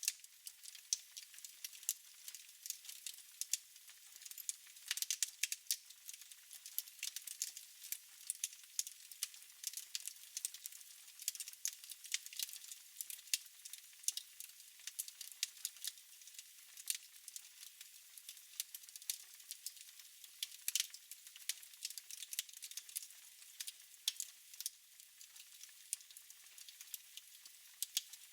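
Fire in a fireplace crackling: a constant run of small, irregular pops and snaps over a soft hiss.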